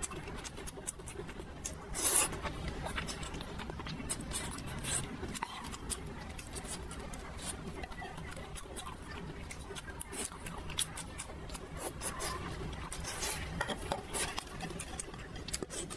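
Close-miked chewing and wet mouth sounds of a person eating saucy noodles, with many small clicks and smacks. There is one louder burst about two seconds in and another near thirteen seconds.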